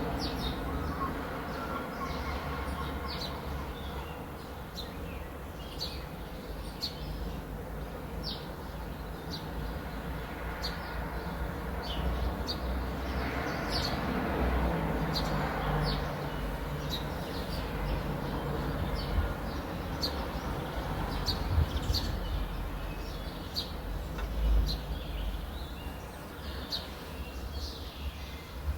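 Small birds chirping, short high falling calls repeating about once a second, over a steady low rumble of outdoor background noise.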